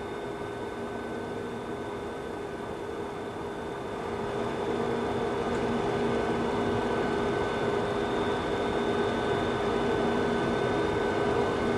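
Steady cockpit hum of a Boeing 737-200 on the ground: air-conditioning and engine noise with a few steady whining tones, growing louder about four seconds in.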